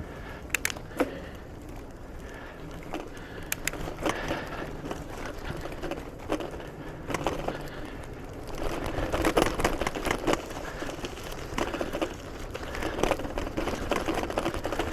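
Bicycle rolling along a trail: steady tyre rumble with scattered sharp clicks and rattles, getting louder and busier about halfway through.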